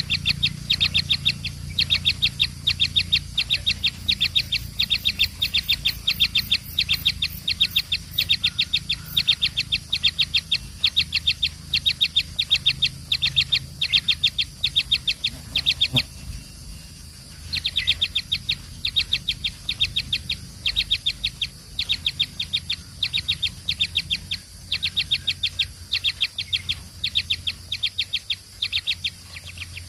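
Baby birds cheeping rapidly, several high chirps a second, the begging calls of chicks being fed, with a short pause about halfway through. A steady low hum runs underneath.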